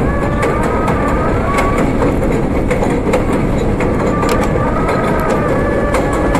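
R32 New York City subway train running between stations: a steady loud rumble with scattered sharp clicks as the wheels pass over rail joints, and a thin wavering high whine.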